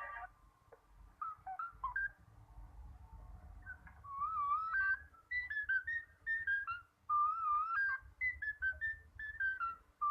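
A bird whistling a run of short clear notes and wavering, warbled phrases, starting quietly about a second in and growing louder after about four seconds, over a low rumble.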